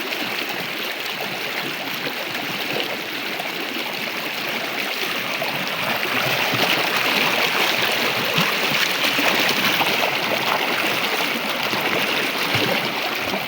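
River water running steadily, a little louder in the middle.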